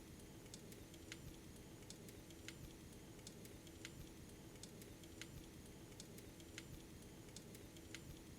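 Fireplace fire crackling faintly: sharp irregular pops, about one or two a second, over a low steady hum.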